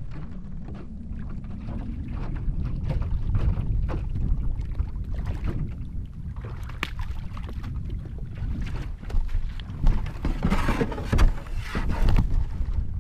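Canoe paddling: a paddle stroking through the water with splashes and swirls, the loudest surges near the end, over a steady low rumble of wind buffeting the microphone.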